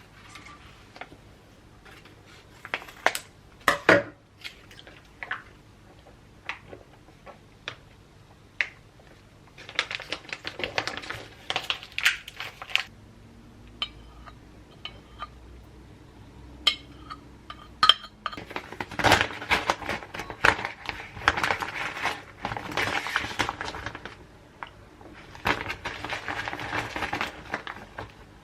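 Dishes and cutlery clinking and knocking, with several longer stretches of dense clattering and scraping.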